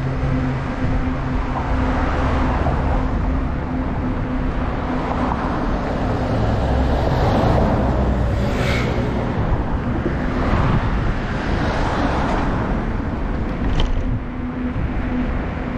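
Road traffic heard from a moving bicycle: wind rumbling on the microphone under a steady noise, with vehicles swelling past several times and a brief sharp tick near the end.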